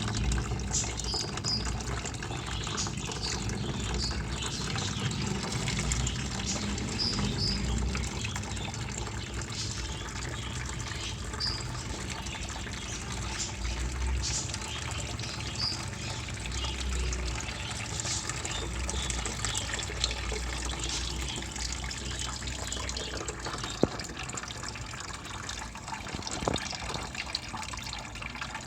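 Old engine coolant draining in a steady stream from a Suzuki Alto's opened radiator drain knob into a tub. There is one sharp click near the end.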